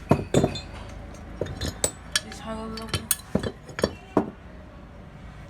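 Metal clinking and knocking: about a dozen sharp strikes of metal parts or hand tools being handled, with a short ringing tone about halfway through.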